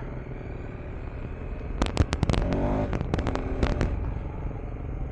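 KTM 390 Enduro R's single-cylinder engine running as the motorcycle rides along, its pitch rising briefly about two seconds in. A cluster of sharp cracks and clicks sits over it around the middle.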